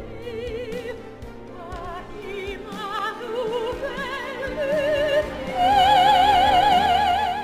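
Operatic singing: a high voice holding a string of notes with wide vibrato, climbing to a loud, long-held high note in the last couple of seconds.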